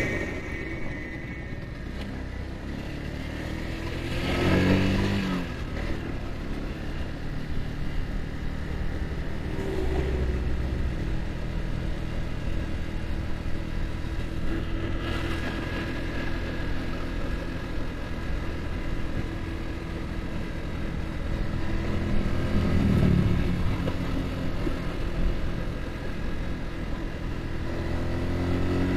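Yamaha R15's single-cylinder engine running steadily at cruising speed, with wind noise from riding. Two louder swells about five and twenty-three seconds in.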